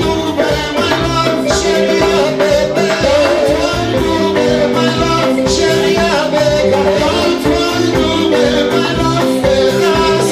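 Live band playing an upbeat dance number with a steady beat.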